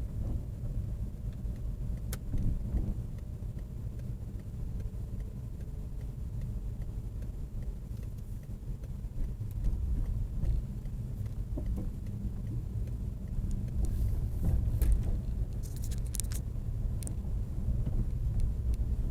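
Low, steady car rumble as picked up by a dash camera, with a few short clicks and rattles between about two-thirds and nine-tenths of the way through.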